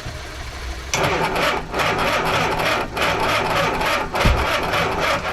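A Mini's engine being cranked on the starter motor for about four seconds, starting about a second in, without catching: the car won't start.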